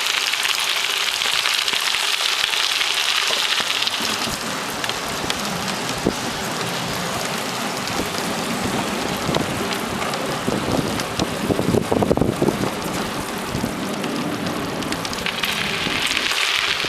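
Bicycle tyres rolling over a gravel trail: a steady crackling hiss of small stones crunching under the wheels.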